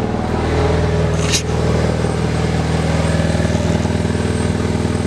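2013 Hyundai Veloster Turbo's 1.6-litre turbocharged four-cylinder engine idling steadily, with one brief click about a second and a half in.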